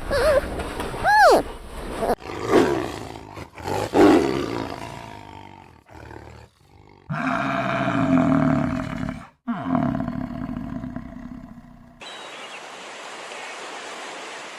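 Big cat roaring and growling: several loud, rough, deep calls with short gaps between them. It follows a few rising-and-falling calls in the first two seconds, and a steady rushing sound takes over about two seconds before the end.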